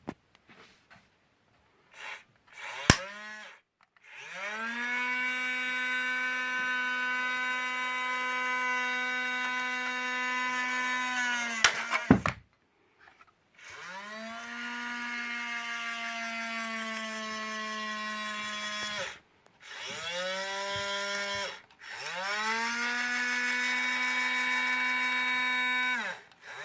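Small electric motor and gears of a knockoff Hobby Engine toy loader whining in four runs, each spinning up at the start and winding down at the end, the first about seven seconds long. Sharp clicks about three seconds in and just before the second run.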